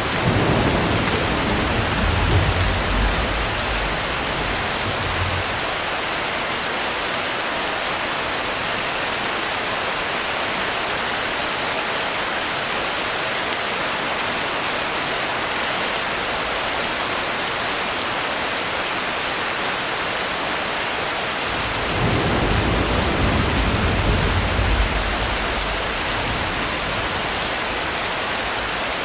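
Steady heavy rain, with two low rumbles of thunder: one right at the start lasting about five seconds, and another about twenty-two seconds in lasting about four seconds.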